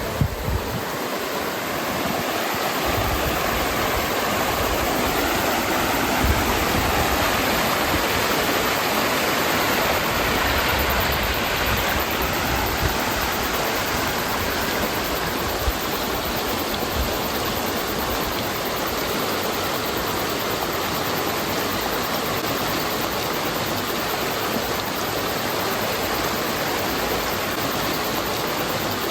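The Waipā River flowing, a steady rush of running water.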